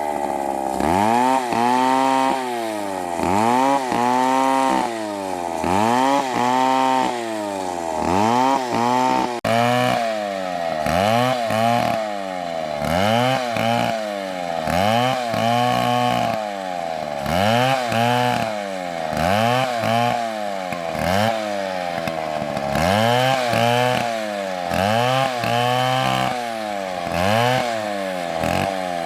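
MS720 chainsaw cutting into a big tree, its engine pitch swelling up and falling back about once a second as the throttle and load change. There is a brief dropout about nine seconds in.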